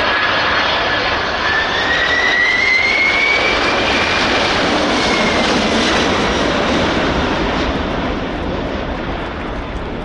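Boeing 747 jet engines running loud as the airliner passes low, with a high whine rising in pitch over the first few seconds; the roar fades over the last few seconds.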